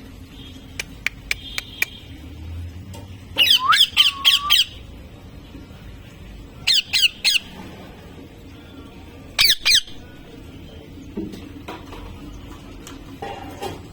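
Pet parrot giving shrill, high-pitched calls in three quick bursts: about five calls, then three, then two, a few seconds apart. A few sharp clicks come before the calls.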